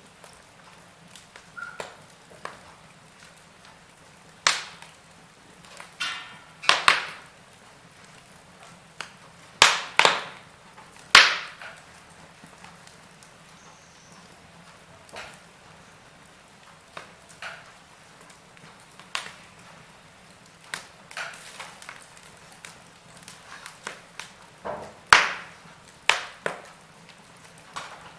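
Wood fire burning in a fireplace: irregular crackles and sharp pops of the burning logs over a faint low hiss, with the loudest pops clustered around a quarter and a third of the way in and again near the end.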